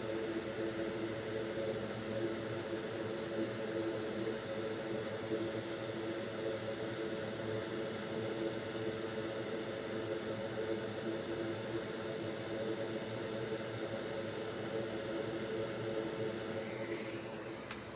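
Steady whir of a small fan running, with a constant low hum, from the electronics repair bench equipment. There is a single sharp click near the end.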